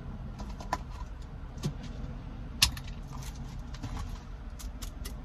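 A car's engine idling, heard from inside the cabin, with scattered small clicks and taps of things being handled; the sharpest click comes a little over two and a half seconds in.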